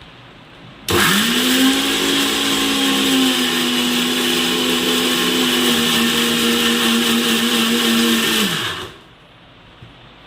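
Electric kitchen blender or mixer grinder running. It switches on about a second in, spins up quickly to a steady high-speed whir for about eight seconds, then winds down and stops.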